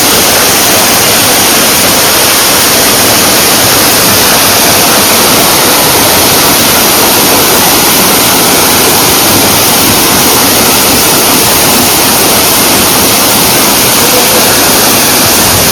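Waterfall: the loud, steady rush of falling water, even and unbroken throughout.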